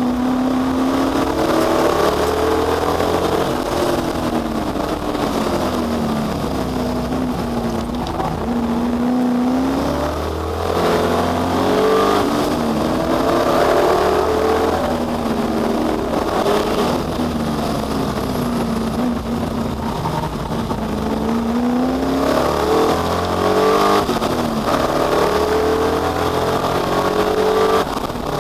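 Ford Capri V8 race car engine revving hard as it laps, its pitch climbing and falling again and again as it accelerates, changes gear and slows for corners.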